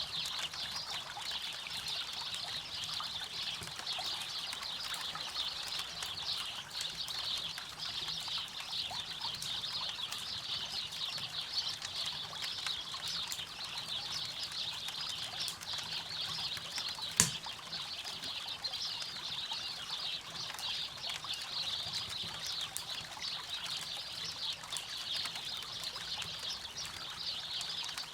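Campfire crackling beside a flowing river: a steady rush of water under a dense scatter of small crackles, with one sharp pop from the fire about two-thirds of the way through.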